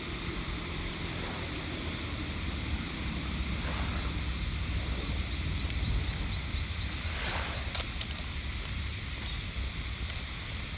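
Steady outdoor ambient noise with a low rumble and a high hiss, with a faint run of quick high-pitched chirps about five seconds in.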